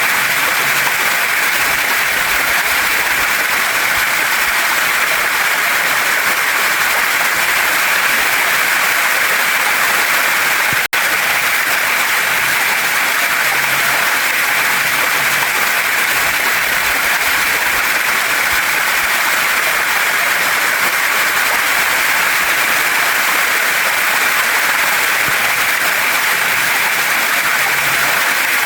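Waterfall and mountain stream: water rushing over rocks in a loud, steady hiss, with a momentary break about eleven seconds in.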